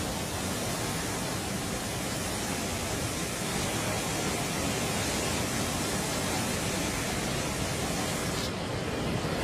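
Floodwater rushing in a swollen stream: a steady, even rush with no breaks. Near the end the hiss at the top thins a little.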